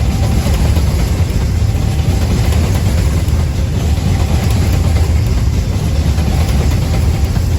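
Coal train passing: a steady, heavy low rumble of the locomotive and loaded wagons on the rails, with no let-up.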